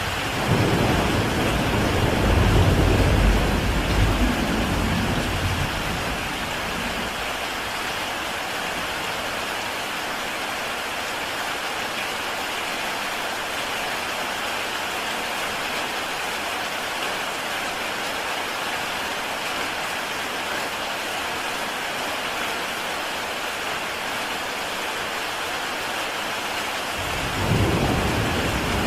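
Heavy rain falling steadily on a tile roof as an even hiss. A low rumble of thunder rolls in just after the start and dies away over the next few seconds, and another rumble begins near the end.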